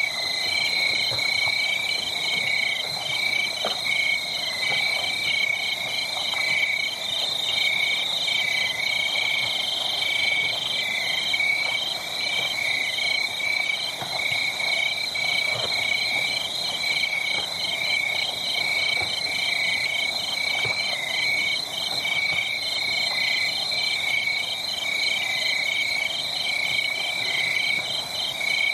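A dense chorus of calling frogs and insects, steady rapid pulsing trills at several pitches, with a few faint crackles of a wood fire underneath.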